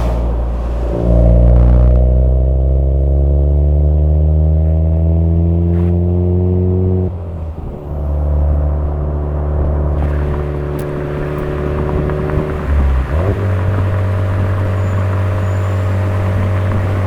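Suzuki Swift Sport ZC33S's 1.4-litre turbocharged four-cylinder running through a Fujitsubo aftermarket exhaust, under acceleration. The revs climb for about six seconds and fall away at an upshift, climb gently again, drop at a second shift about thirteen seconds in, then hold steady at a cruise.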